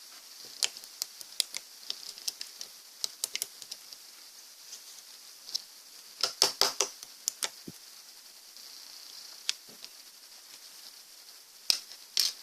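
Slime being squeezed and worked by hand: irregular sticky clicks and small air-bubble pops, a quick cluster of them about six to seven seconds in and a few more near the end.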